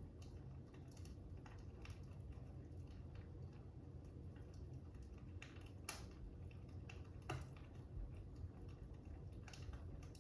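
Fire crackling faintly: a low steady rumble with a few sharp, irregular pops and snaps.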